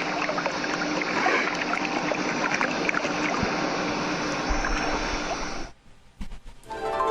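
Recording of dolphins playing underwater: many rapid clicks and occasional whistles over a wash of water noise. It cuts off about six seconds in, and music starts near the end.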